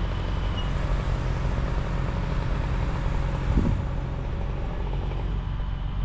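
An engine running steadily at low speed, with one brief louder bump about three and a half seconds in.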